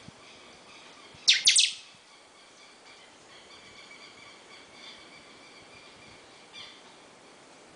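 A caged bird gives three loud, sharp calls in quick succession about a second in, each sweeping steeply down in pitch. Fainter chirps follow later.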